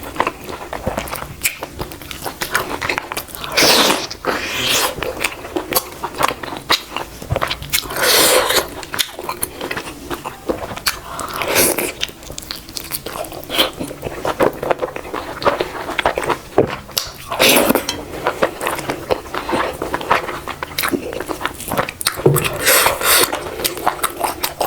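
Close-up eating sounds: a person chewing and biting food with wet mouth clicks, and a louder burst every few seconds.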